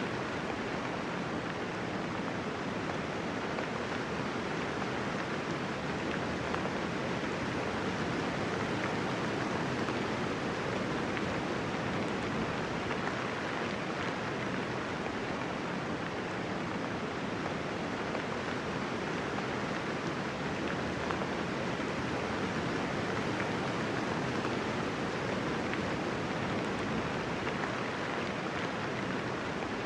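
Steady rainfall: a dense, even patter of raindrops with no thunder.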